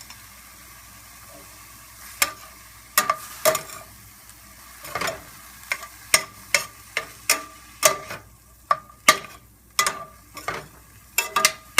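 Ground chicken sizzling in a skillet while a utensil scrapes and taps against the pan, chopping the meat up fine. The ringing taps start about two seconds in and come irregularly, about one or two a second.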